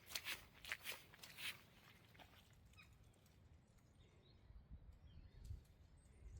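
Footsteps on wet ground at a walking pace, about two or three steps a second, that stop about a second and a half in. What follows is quiet outdoor ambience with faint low rumbling near the end.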